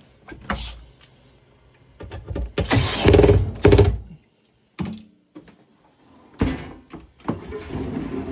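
Clunks and knocks of a dishwasher being closed and fastened back up after its door latch bracket is tightened, with a louder scraping rattle about two to four seconds in. A steady low hum begins near the end.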